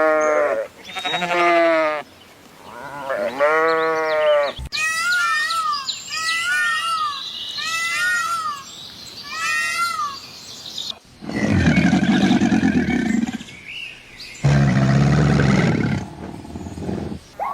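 A run of different animal calls: first three drawn-out bleat-like calls, then a burst of short, high, quickly repeated chirping calls, then two long, rough roars lasting about three seconds each.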